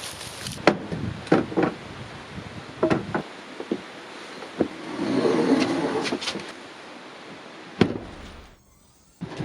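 A series of sharp knocks and clunks, about eight, scattered irregularly, with a longer rough scraping noise about five seconds in.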